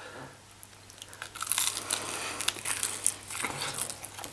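A person biting and chewing a sauced chicken drumstick: irregular crackly, clicky mouth sounds starting about a second in.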